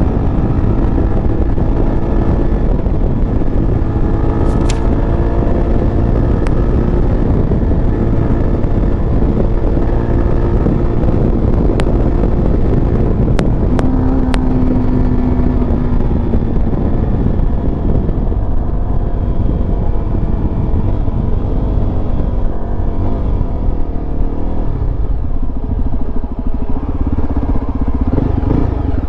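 Yezdi Adventure's single-cylinder engine running at road speed, heard from the rider's seat with a steady rush of wind. The engine note drifts up and down with the throttle, and a few sharp ticks sound in the first half.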